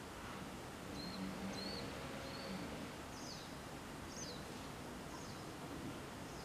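Faint chirps of a small bird over a steady background hiss: a few short arched notes, then three quick downward-sweeping notes about a second apart.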